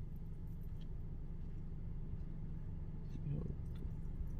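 Steady low hum of a car engine idling, heard from inside the car, with a faint brief sound about three seconds in.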